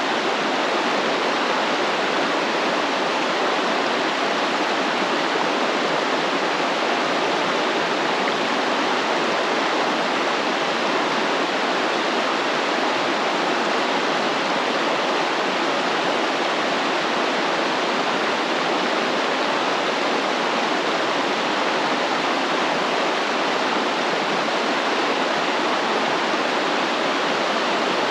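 Stream water flowing and splashing in a steady rush, with no change in level.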